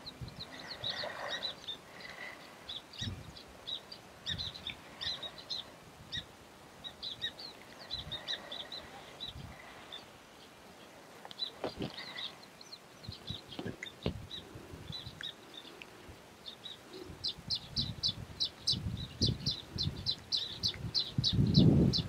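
Baya weavers calling at their nest colony: short high chirps scattered throughout, becoming a fast even run of chirps, about three a second, in the last few seconds. A few dull knocks come around the middle, and low rustling grows louder near the end.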